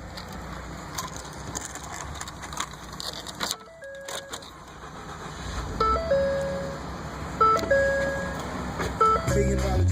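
Ford F-150's cabin warning chime sounding a few short two-note dings, then the truck's 3.5-litre EcoBoost twin-turbo V6 starting to crank and fire near the end, on a cold start.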